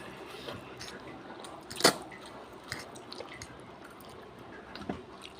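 Someone eating palabok noodles: chewing and small clicks of mouth and utensils, with one sharp click about two seconds in.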